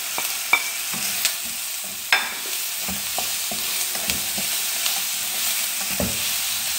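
Onion, tomato and spice masala sizzling in oil in a black non-stick wok while a slotted spatula stirs it, scraping and tapping against the pan. Two sharper knocks come about half a second in and about two seconds in.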